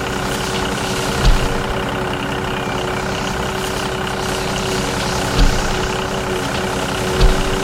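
Small engine running steadily with an even pitched hum, punctuated by three low thumps.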